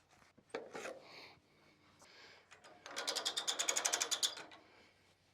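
A metal ratchet mechanism clicking rapidly and evenly for about a second and a half past the middle, after a few light knocks.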